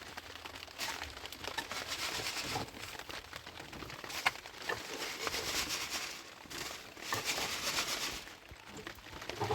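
Rustling and crinkling handling noise in several swells, with scattered sharp clicks.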